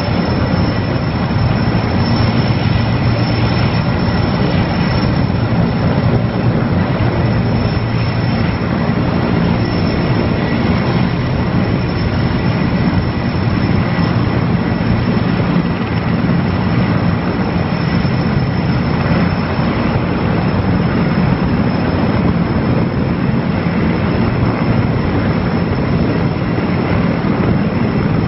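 Erickson S-64 Air-Crane heavy-lift helicopter running steadily overhead: loud, unbroken rotor and twin-turbine noise with a thin high whine on top.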